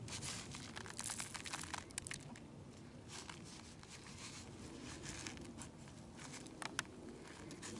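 Loose birdseed rustling and crackling, with scattered small clicks, as a peanut-butter-coated pine cone is rolled around in it.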